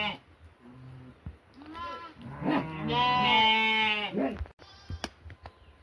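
Goats bleating: a short call early on, then a longer call with a second animal overlapping it in the middle. A few sharp clicks follow near the end.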